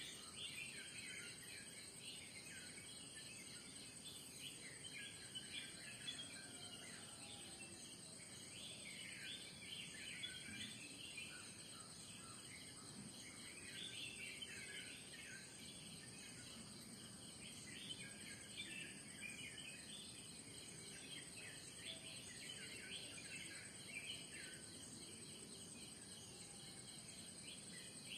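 Morning chorus of many birds chirping and calling over one another, over a steady, high-pitched insect drone.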